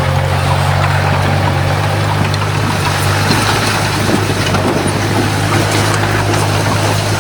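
Diesel engine of heavy earthmoving machinery running steadily with a constant low drone.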